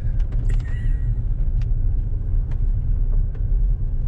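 Road noise of a car being driven, heard inside the cabin: a steady low rumble with scattered light ticks.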